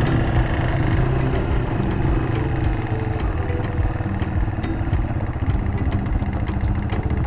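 Motorcycle engine running steadily at low revs, with frequent light clicks over it.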